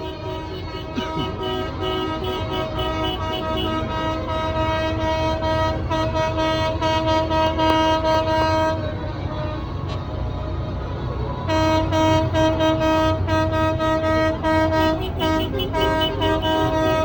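Horns on passing tractors sounding in long held blasts over the low rumble of tractor engines. The horn stops briefly partway through, then returns in quick repeated toots.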